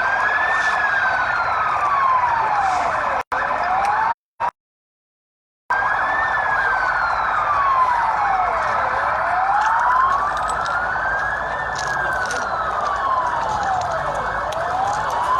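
Emergency vehicle siren in a slow wail, rising and falling in pitch about once every five and a half seconds, over a steady din. The sound cuts out briefly about three seconds in and again for over a second soon after.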